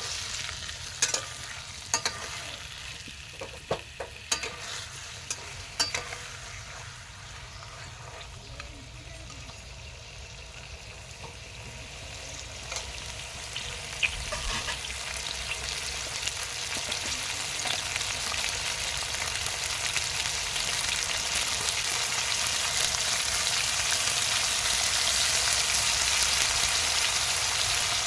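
Food sizzling and frying in hot oil in a pan, with a spatula clicking against the pan several times in the first few seconds. The sizzle grows steadily louder through the second half.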